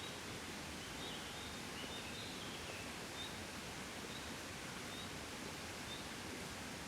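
Gentle wind blowing steadily, with a soft rustle. A faint, short, high chirp repeats about once a second, and a few brief falling chirps come in the first half.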